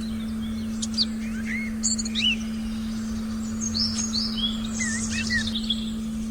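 Several forest birds chirping and whistling in short rising and falling calls, busiest in the second half, over a steady low sustained tone.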